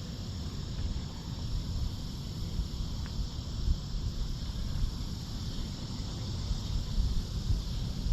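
Insects, likely crickets, chirring in a steady high-pitched evening chorus, with a louder low rumble on the microphone underneath.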